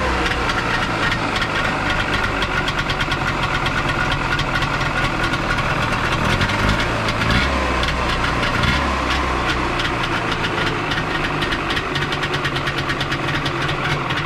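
Trabant P601's two-cylinder two-stroke engine running steadily with a rapid, even chugging, including the unpleasant noise whose source the owner is hunting; he says his worst suspicion about it seems confirmed.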